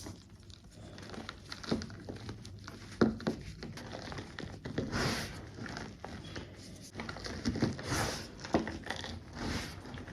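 Cornstarch over gym chalk being squeezed and crushed by hand, giving irregular squeaky crunches and crackles, with louder swells about five and eight seconds in.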